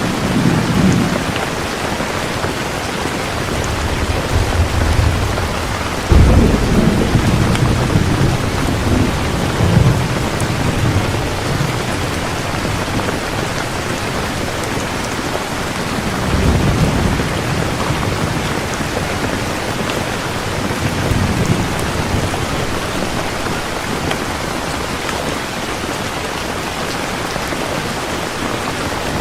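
Heavy rain falling steadily, with rolls of thunder rumbling several times; the loudest clap breaks in suddenly about six seconds in and rumbles on for a few seconds.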